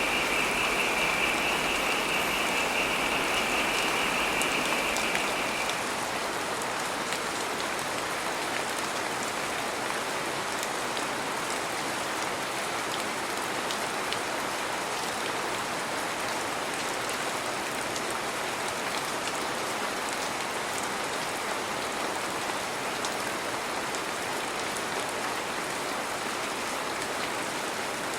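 Heavy rain falling steadily, with faint scattered drop ticks. For the first five seconds or so a high, rapidly pulsing tone sounds over the rain, then stops.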